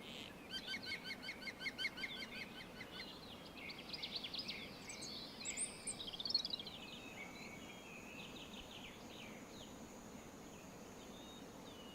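Wild songbirds calling: a fast run of repeated chirps, about six a second, for a couple of seconds. A jumble of other high calls follows for a few seconds, then only a faint steady outdoor background remains.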